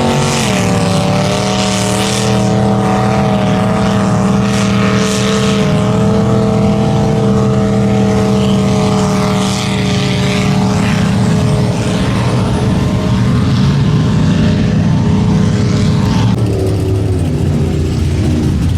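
Mud bog truck's engine running at high revs, held hard and steady, its pitch dipping sharply just after the start and shifting again about three-quarters of the way through.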